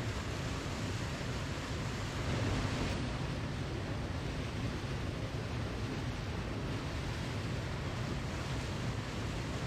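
Waterfall rushing: a steady, unbroken roar of falling water with no change in level.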